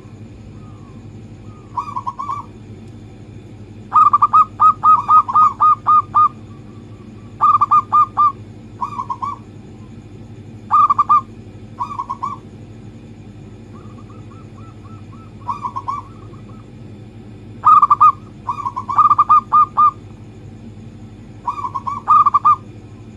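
Zebra dove (perkutut) cooing: short bursts of quick staccato coos, repeated every few seconds, over a steady low hum.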